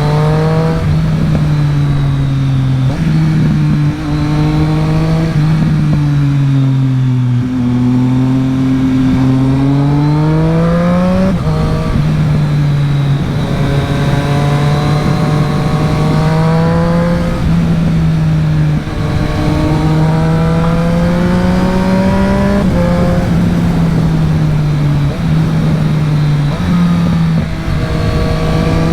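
Triumph Street Triple RS's 765 cc inline-three through a LeoVince LV One EVO slip-on exhaust, under way and revving up and down. Its pitch climbs, then drops suddenly at gear changes every few seconds.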